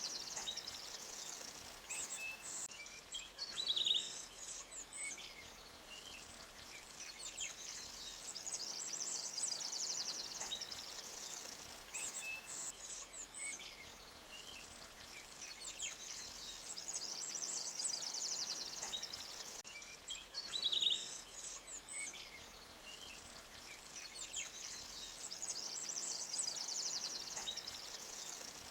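Forest ambience: small birds chirping, with a few brief louder calls, over a high rapid trilling that swells and fades every several seconds, and the faint steady rush of a stream underneath.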